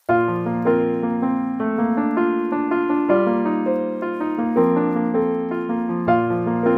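Background piano music: a calm track of held chords with a melody over them, starting suddenly at the beginning.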